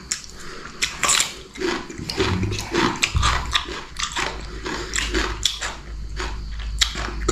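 A person biting and chewing food close to the microphone: an irregular run of short crunching and smacking sounds.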